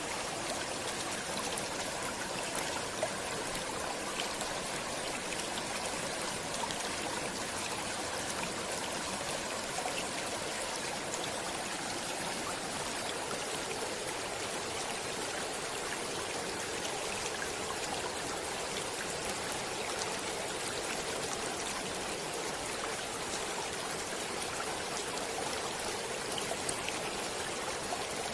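Stream water flowing steadily: an even, unbroken rush with small trickling splashes in it.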